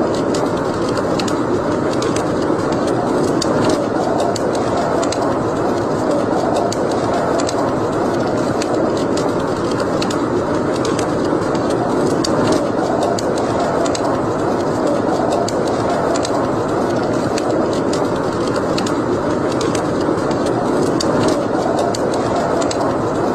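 Wood fire burning in a fireplace, with irregular sharp crackles and pops over a steady rushing noise.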